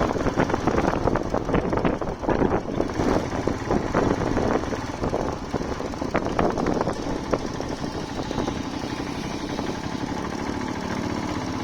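Motorcycle engine running while riding, with a fast pulsing beat and road and wind noise; it eases to a slightly quieter, steadier drone in the second half.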